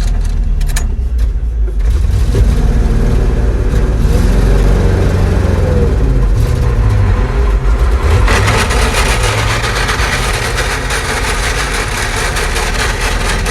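Old three-ton truck's engine running with its speed shifting, and a harsher, noisier sound joining about eight seconds in. The driver blames the clutch, saying the transmission is struggling to catch gears.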